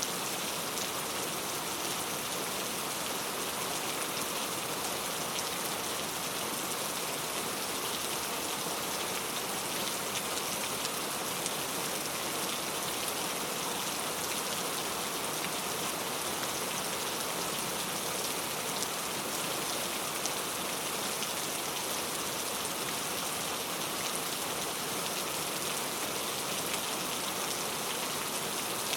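Steady rain falling, a continuous hiss with a fine patter of individual drops throughout.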